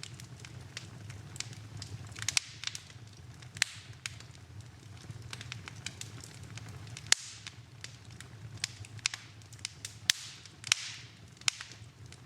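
Wood fire burning in a fireplace: irregular sharp crackles and pops, a few louder ones, over a steady low hum, with a brief hiss about ten seconds in.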